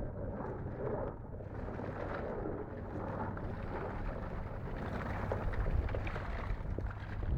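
Boat engine running steadily as a low hum, with wind rumbling on the microphone.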